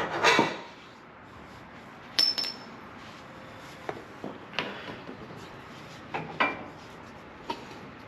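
Metal tools and parts clinking and knocking: a loud clink and clatter at the start, a sharp clink with a short metallic ring about two seconds in, then several lighter knocks.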